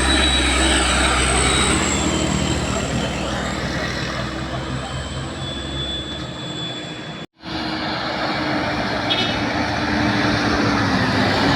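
Old truck engine running hard, heavy and steady, with road noise around it. The sound drops out completely for an instant about seven seconds in, then carries on.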